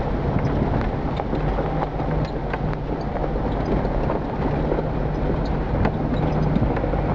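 A 4x4's engine idling steadily as a low hum, with wind buffeting the microphone.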